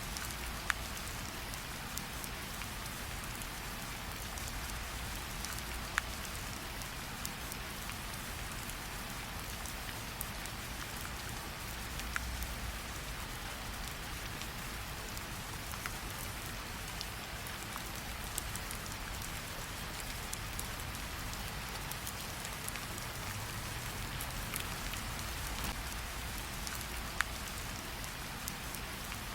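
Steady rain hiss over a low rumble, with a single sharp campfire crackle every few seconds.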